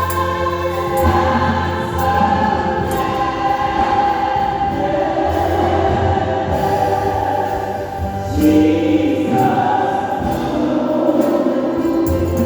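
Baptist church choir singing a gospel song, the voices holding long notes together.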